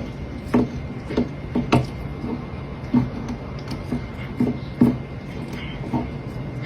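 Irregular knocks and taps, roughly one or two a second, over a steady low hum.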